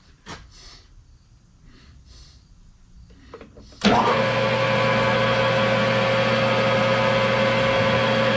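A few light handling clicks, then about four seconds in a metal lathe is switched on and its electric motor and gearing run with a steady hum.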